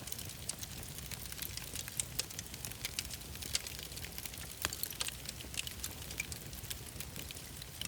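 Wood fire crackling in a fireplace, with many small irregular pops and snaps over a low steady rumble.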